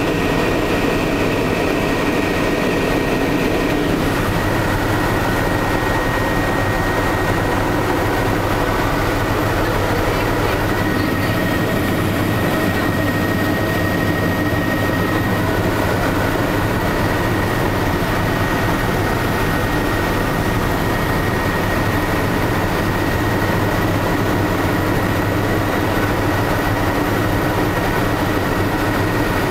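Tour helicopter in flight: a steady drone of turbine and rotor with a constant high whine over it, unchanging throughout.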